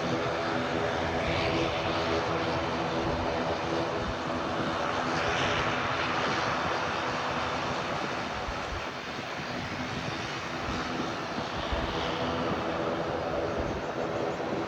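Airliner engines running: a steady droning hum under a rushing noise that swells near the middle and eases slightly toward the end.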